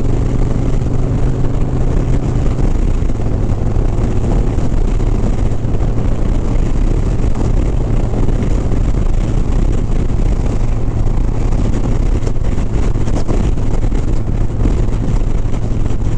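Harley-Davidson Sport Glide's V-twin engine running steadily at highway cruising speed, with wind noise on the microphone.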